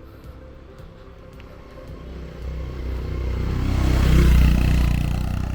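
A motor vehicle on the road approaching and passing close by. It grows louder from about two seconds in, is loudest about four seconds in, then fades away.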